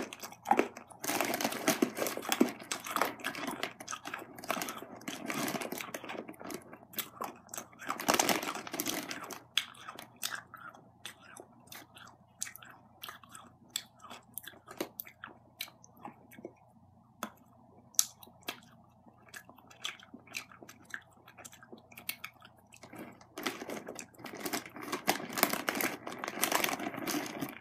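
A person chewing and crunching hard penny candy, with many short sharp crunches and mouth clicks. A clear plastic candy bag crinkles for several seconds near the start and again near the end as a hand rummages in it.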